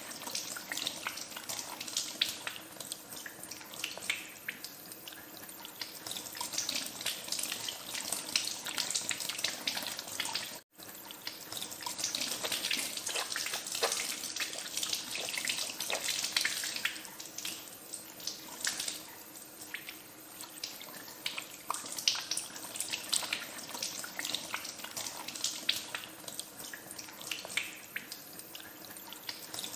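Tap water running into a sink while hands are washed under it, with irregular small splashes. The sound cuts out for an instant about a third of the way through, then carries on.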